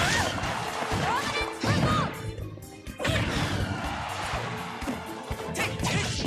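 Music played on an Akai MPC Keys 61: hard percussive hits mixed with short pitched sounds that glide up and down, dipping briefly about two seconds in before the hits resume.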